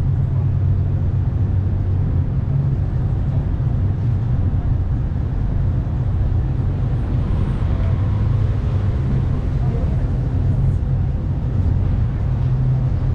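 Ferry's engines running with a steady, unbroken low drone.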